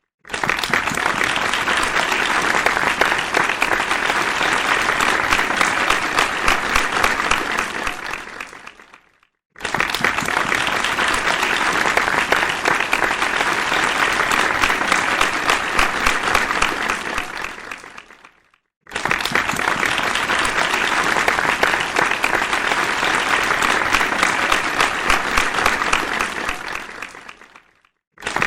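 Crowd applause in three rounds of about nine seconds each: each starts abruptly at full strength, fades away, and breaks off into a moment of silence before the next begins.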